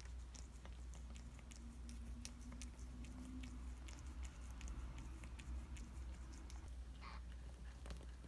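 Mother cat licking and chewing at her newborn kitten: soft, irregular wet clicks, over a steady low hum.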